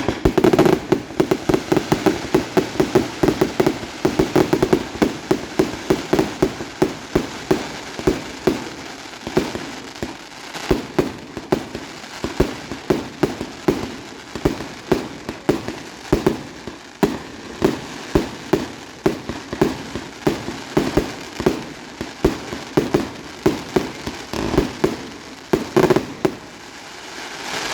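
Fireworks display: a continuous string of sharp bangs and crackles, several a second, densest in the first few seconds.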